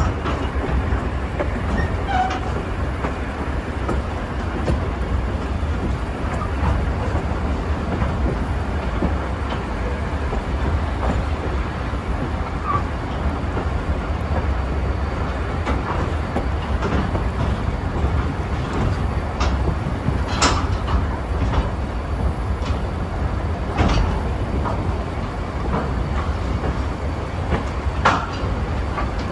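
A train running along the track: a steady low rumble with scattered sharp clicks and knocks, a few louder ones in the second half.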